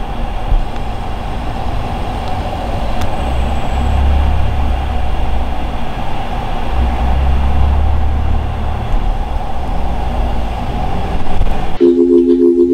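A steady low rumble with a hiss, like a running vehicle, swelling twice; music comes in near the end.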